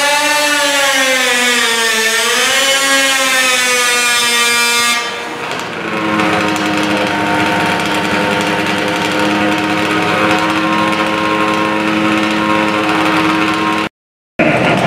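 Modified pulling lawn tractor's engine revving, its pitch swinging up and down for about five seconds. Then, after an abrupt change, an engine runs steadily at a fixed pitch, with a brief dropout near the end.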